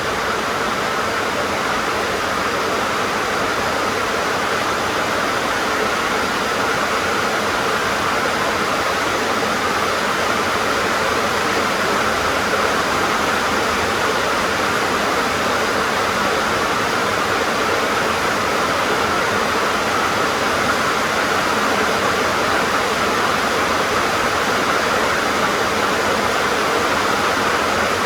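Heavy rain drumming steadily on a sheet-metal (tin) roof, an even dense hiss with no breaks.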